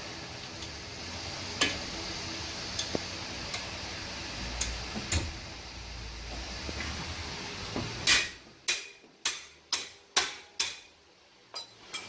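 Metal tools and brake parts being handled: scattered light clinks and taps, then about two-thirds of the way through a run of sharp metallic knocks, about two a second, like parts being tapped or hammered.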